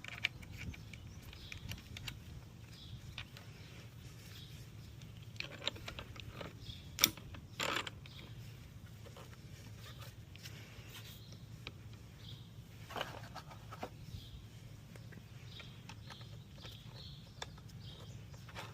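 Scattered faint clicks and knocks from hands and tools fitting a slip-on motorcycle exhaust, with a sharper click about seven seconds in and a short scrape just after it, over a low steady hum.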